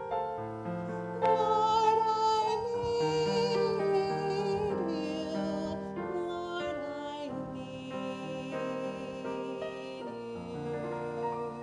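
A woman singing a slow hymn solo with vibrato, to piano accompaniment.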